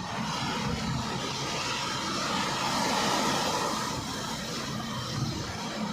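Rain falling: an even hiss that grows louder about two to three seconds in and eases off after.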